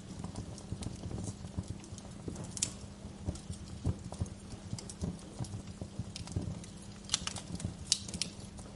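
Wood fire crackling: a dense run of soft low pops, with sharper, brighter snaps now and then and a cluster of them near the end.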